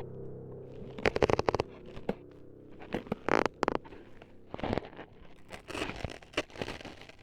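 Close-miked ASMR cutting and crunching sounds, a roleplay of ears being cut up: short bursts of crisp snips, tearing and crunching come in about four clusters, with quieter rustling between them.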